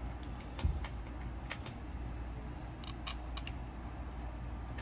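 Scattered light clicks and taps of small parts being handled by hand, about half a dozen, over a low steady hum.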